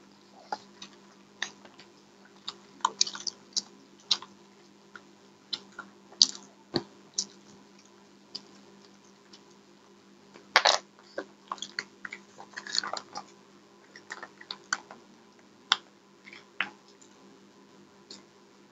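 Close-miked chewing and crunching of crisp fried food, a fish kabiraji with its lacy fried-egg coating: irregular sharp crunches and mouth clicks over a faint steady hum.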